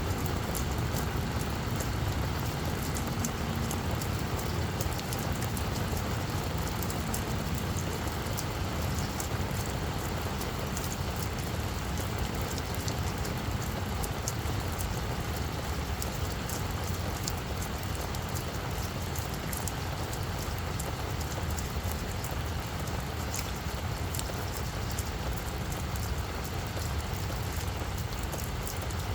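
Steady rain falling on a flower bed, a dense patter of small drop ticks over an even hiss, with a steady low rumble underneath.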